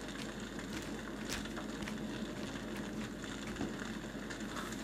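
Steady room noise on a theatre stage with a few faint knocks and clicks as performers move about and a puppet is handled.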